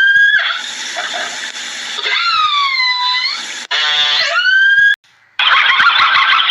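High-pitched animal calls: a quick rattle that rises into a held squeal, a squeal that falls and rises again, then the first call once more. A dense, noisy chattering starts about five seconds in.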